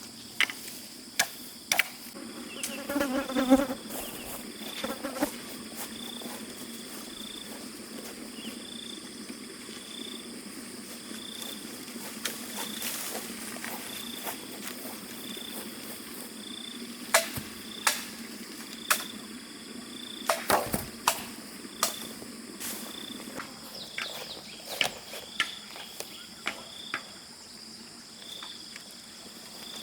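An insect chirping at a steady rhythm, one short high chirp about every second, over scattered sharp clicks and knocks. A brief pitched call is heard about three seconds in.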